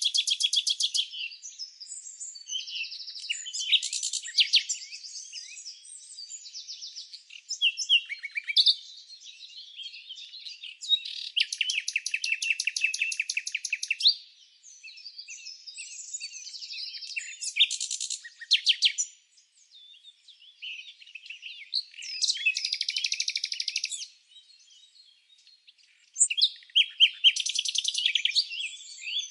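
Songbirds chirping and singing, with bursts of fast trilled notes every few seconds, the longest about 11 to 14 seconds in, and scattered shorter chirps between.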